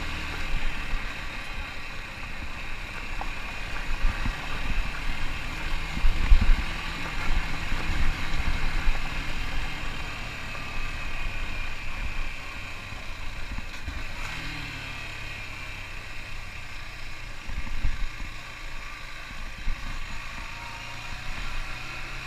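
Motorcycle engine running steadily while riding on a dirt trail, with irregular low thumps mixed in, heaviest about a quarter of the way through, and a change in engine pitch a little past halfway.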